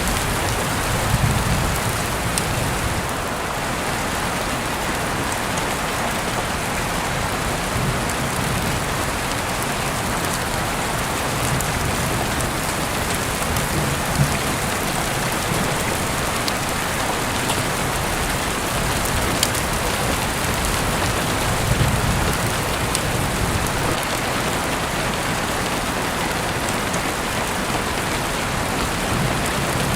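Heavy rain falling steadily, a dense even hiss with a few scattered drop ticks and several brief, soft low rumbles.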